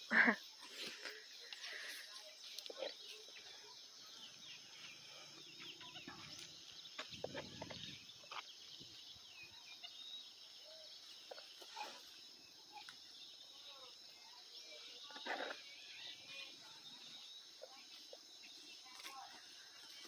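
Quiet farmyard ambience: a steady high-pitched insect drone, with chickens clucking now and then and a few soft knocks and scrapes.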